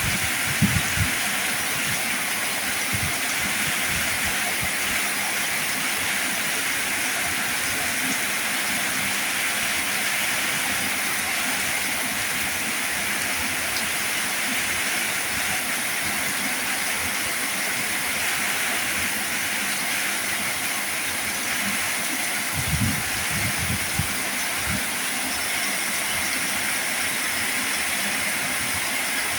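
Heavy rain falling, a steady hiss with a few short low thuds about a second in and again near 23 seconds in.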